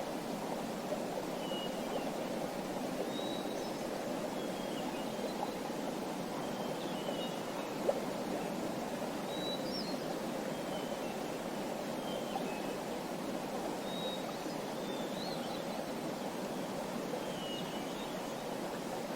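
Small birds chirping, short high calls every second or two, over a steady rush of running water.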